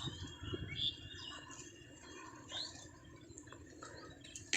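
A few faint, short bird chirps in the background over low, steady room noise.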